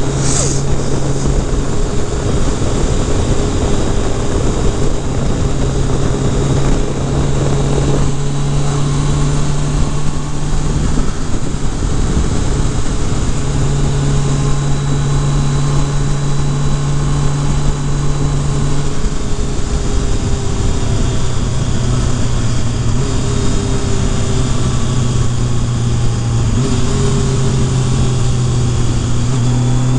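Kawasaki Concours ZG1000 inline-four engine running at cruising speed, heard from the rider's seat under steady wind and road noise. Its pitch steps up and down a few times as the throttle changes.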